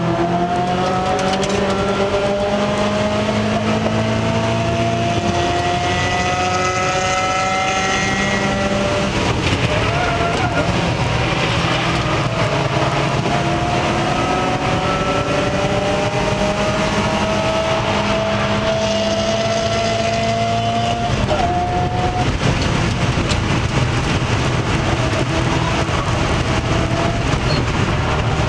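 Mazda Miata race car's four-cylinder engine running hard at high revs, heard from inside the cockpit. Its pitch climbs slowly as the car accelerates, with a short drop about two-thirds of the way through.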